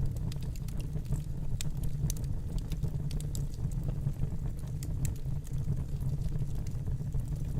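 Wood fire burning in a fireplace: a steady low rumble of flame with scattered, irregular sharp crackles and pops.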